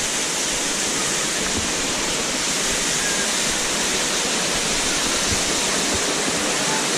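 Cave waterfall: a steady rush of falling water.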